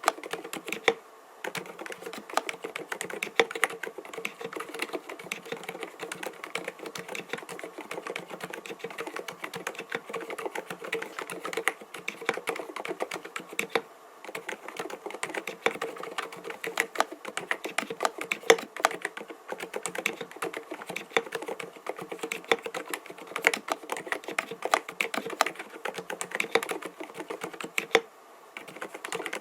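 Continuous fast typing on an mStone Groove T 87A mechanical keyboard with silent (dampened) Milky linear switches: a dense run of soft, muted keystroke clacks. There are brief pauses about a second in, around halfway, and near the end.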